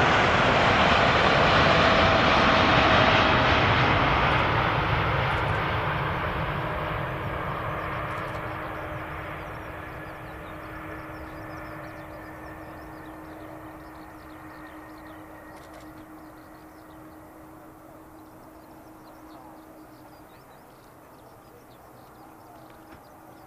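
Jet engine noise of a landing Boeing 777-200ER, loudest at the start with a falling whine in the first few seconds, then fading away steadily as the airliner moves off.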